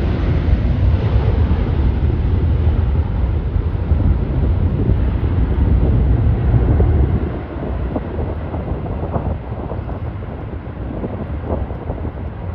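Wind buffeting the microphone: a loud, rough low rumble that eases about seven seconds in.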